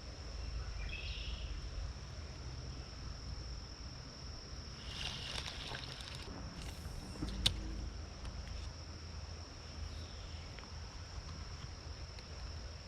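Outdoor ambience with a steady high-pitched insect drone over a low rumble, a short chirping call about a second in, a rustling noise between about five and seven seconds in, and one sharp click midway.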